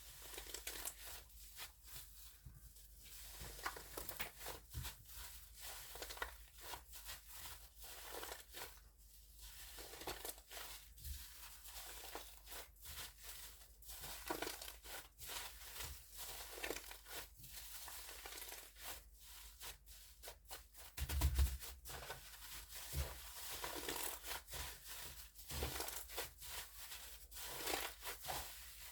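Hands squeezing and stretching fluffy foam slime, a continuous run of irregular crackling, tearing squishes. A louder thump comes about three-quarters of the way through.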